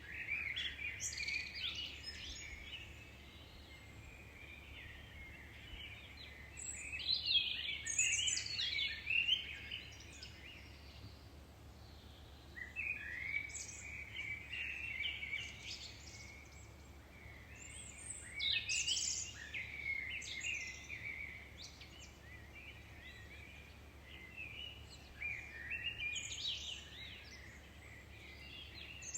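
Songbirds singing: a burst of high chirps and trills every five or six seconds, with quieter gaps between, over a faint steady low hum.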